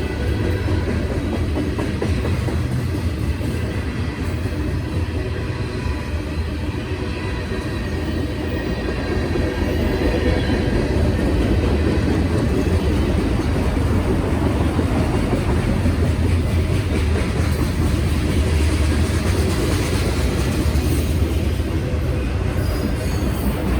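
A freight train rolling past on the tracks: a steady rumble of wheels on rail that gets a little louder about ten seconds in.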